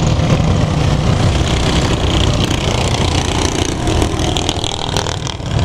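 Minibike engines running during a flat track race heat, a steady loud drone that dips briefly near the end.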